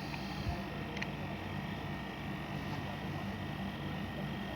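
Split air conditioner running steadily with a low hum, while it is charged with R407C refrigerant and the gas charge is still low.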